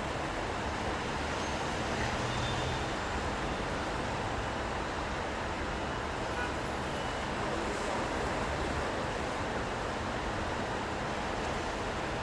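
Steady city traffic noise: a continuous wash of passing vehicles with a low rumble, with no single event standing out.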